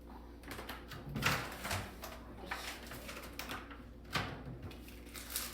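Light clicks and rustles of kitchen items being handled, about half a dozen short sharp sounds spread unevenly.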